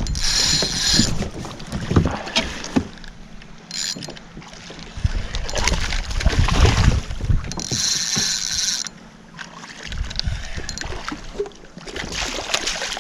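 Wind buffeting the microphone and water sloshing against a kayak hull, with scattered clicks and knocks and two short bursts of high hiss, near the start and about two-thirds through.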